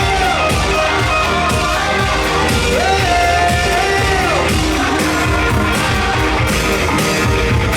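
Live rock band playing: a sung melody with long held notes that slide off at their ends, over distorted guitars and a steady drum beat.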